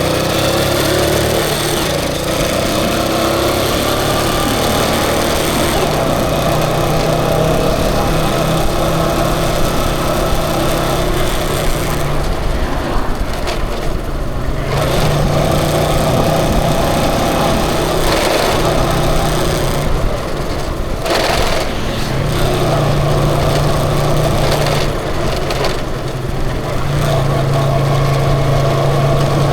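A small vehicle engine running under way, its steady note easing off about twelve seconds in and again around twenty seconds, then picking up again, over a constant rush of road and wind noise.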